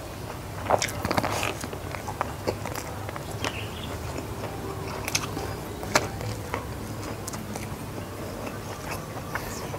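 Close-miked mouth sounds of a person chewing a mouthful of rice and food, with short sharp wet clicks and smacks. They come thickly about a second in, then scattered, over a steady low hum.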